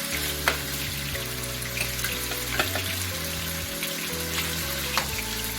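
Chicken chunks sizzling as they fry in hot coconut oil in a pan, with sharp pops and spits of oil now and then.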